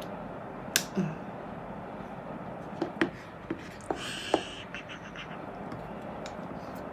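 Hands handling a laptop's accessories and packaging: about half a dozen light clicks and taps spread out, with a brief soft rustle about four seconds in, over a steady low room hum.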